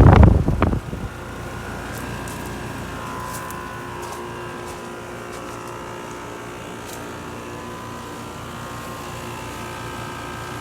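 2006 four-ton American Standard Allegiance 14 air conditioner outdoor unit running steadily after start-up: a steady hum with several held whining tones. A loud rushing noise in the first second stops abruptly.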